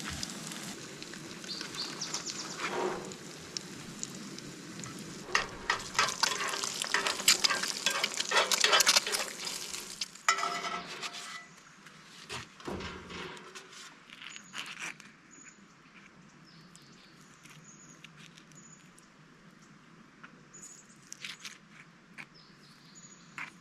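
Dense crackling and crunching, like movement through dry brush or gravel, loudest about five to ten seconds in, then fading. After that a bird gives short high chirps about once a second.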